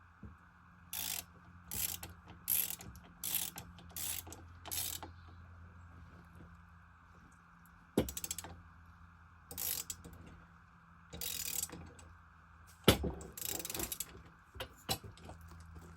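Ratchet wrench clicking in short runs as bolts on an Alaskan chainsaw mill's height posts are tightened down, about five quick runs in the first five seconds and several more in the second half.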